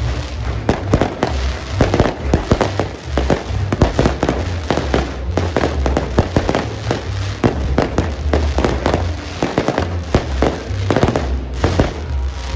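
Fireworks going off in rapid, irregular succession: many sharp bangs and crackles overlapping, with music playing underneath.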